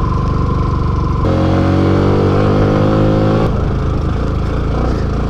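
Motorcycle engine running while riding. The engine note changes about a second in, climbs slightly, then drops back about three and a half seconds in.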